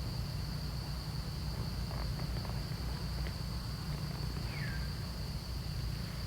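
Steady high-pitched drone of insects, with a low rumble of wind on the microphone. A short falling chirp comes about four and a half seconds in, with a few faint clicks before it.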